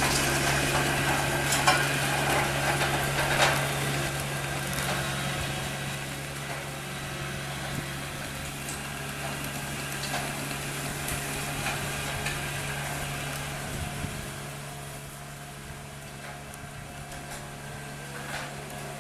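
Engine running steadily, a low even hum under a noisy rattle with scattered clicks, growing quieter after the first few seconds.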